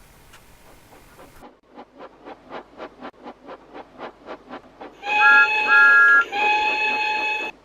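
Steam locomotive chuffing in an even rhythm, about four beats a second. About five seconds in, its chime whistle blows two long blasts over the chuffs, the first broken by two short higher notes.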